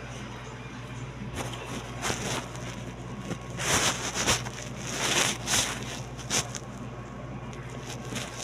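Close-miked eating sounds: a run of short, noisy chewing or crunching bursts, most of them in the middle stretch, over a steady low hum.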